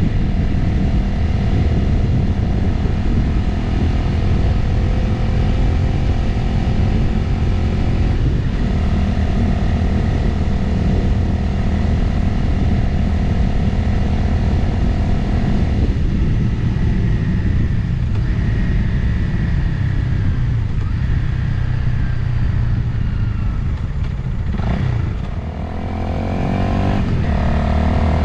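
Motorcycle engine running at road speed with wind noise over the mic. The engine pitch sinks as it slows about two-thirds of the way through, and near the end it accelerates again with a gear change.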